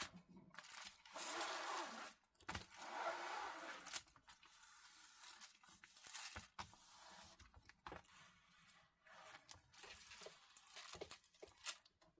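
Plastic packaging of a diamond painting kit being handled, rustling, crinkling and tearing in irregular bursts with a few sharp clicks. The handling is busiest at the start and thins to scattered clicks and rustles later.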